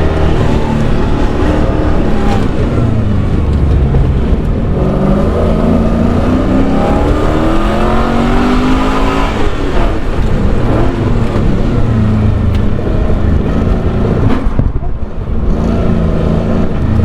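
LS V8 engine of a swapped BMW E36 being driven hard on an autocross run, its pitch repeatedly climbing under throttle and dropping back as the driver lifts, with a brief sharp drop near the end before it pulls again.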